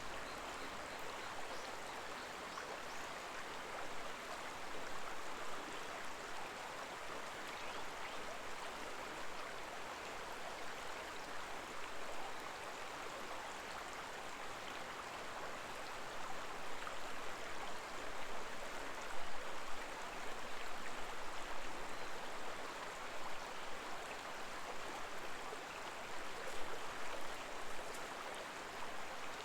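Shallow water of the Koma River babbling steadily, getting a little louder about halfway through.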